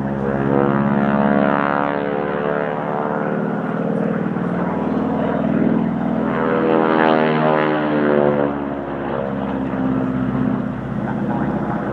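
Propeller-driven aircraft flying over, its engine note steady in level but slowly shifting in pitch.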